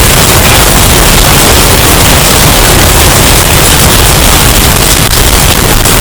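Hurricane wind sound effect, bass-boosted and overdriven into a steady, very loud, distorted wash of noise with no let-up.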